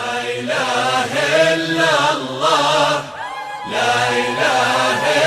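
A munshid's solo voice chanting an Islamic nasheed in long, ornamented phrases over a steady low drone, with a short break between phrases about three seconds in.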